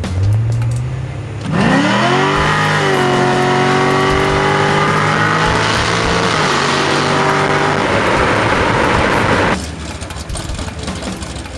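Modified C6 Corvette V8 with long-tube headers and a catless X-pipe making a wide-open-throttle test hit, revving to about 6,700 rpm. A low idle hum gives way to a sudden loud launch with a sharply rising engine note, which then holds high and cuts off abruptly near the end.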